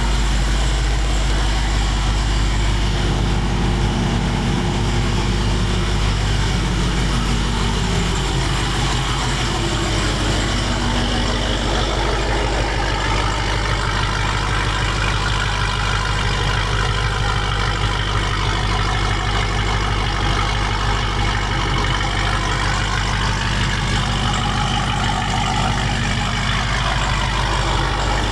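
Loud car engine and exhaust running steadily with a deep low rumble.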